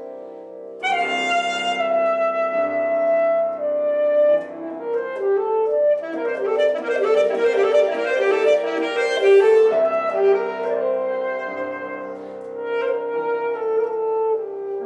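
Alto saxophone playing a melody with piano accompaniment. The saxophone enters on a held note about a second in, and a passage of many quick notes follows in the middle.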